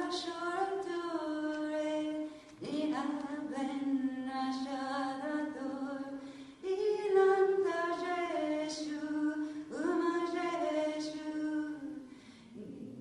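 A solo voice singing unaccompanied: long, held notes in phrases of a few seconds each, with a short breath between phrases.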